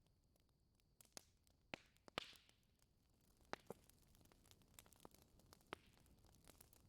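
Wood fire crackling faintly in a fireplace: scattered sharp pops and snaps, the loudest about two seconds in with a brief hiss after it.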